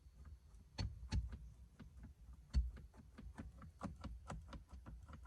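Irregular light clicks and taps, a few strong ones and then a run of quicker ones near the end, over a low steady rumble inside a car cabin.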